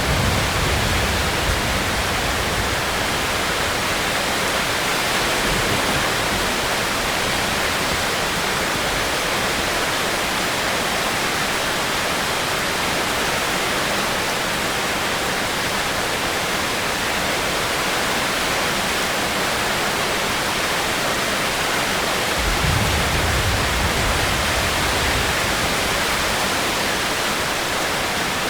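Steady heavy rain, a dense even hiss, with a low rumble swelling near the start and again about 22 seconds in.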